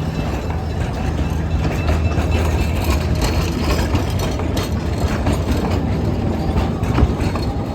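Small Plymouth diesel locomotive running steadily as it pulls a heavy train, with a low engine hum under the clicking and clacking of the cars' wheels over rail joints. A sharper clank comes about seven seconds in.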